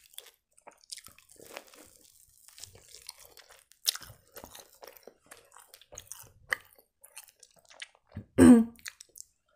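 Close-miked chewing of a chicken-filled blin with sour cream: many small, irregular mouth clicks and smacks, with one sharper click about four seconds in. Near the end comes a brief voiced sound from the eater.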